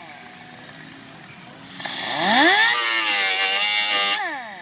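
Small high-speed power tool cutting down the protruding tip of a screw: its motor winds down at the start, spins up again with a rising whine about two seconds in, runs under load as it cuts, and winds down near the end.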